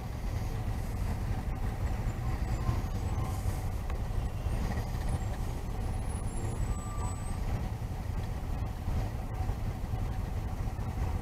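Suzuki V-Strom 650 V-twin motorcycle under way: steady low engine rumble mixed with wind and road noise.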